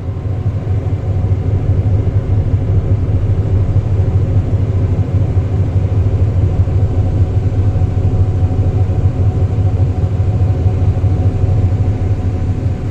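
Steady low mechanical rumble with a faint even hum above it, unchanging throughout.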